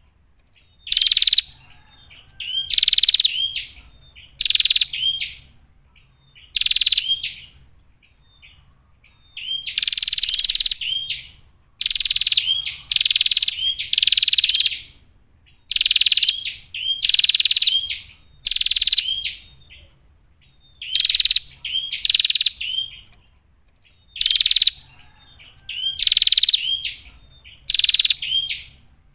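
Female prinia (prenjak) calling: a series of short, rapid calls about a second long each, repeated every second or two, with two brief pauses, one about a quarter of the way in and one about two-thirds of the way in.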